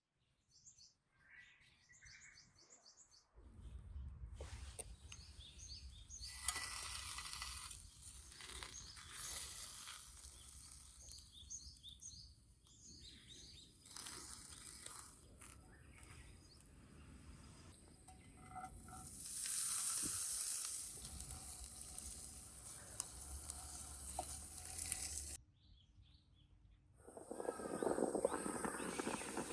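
Small birds chirping, over a changing hiss with a low rumble that swells loudest about twenty seconds in.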